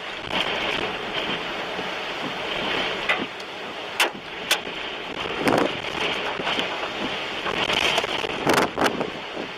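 Strong wind rushing over the microphone, broken by several sharp knocks.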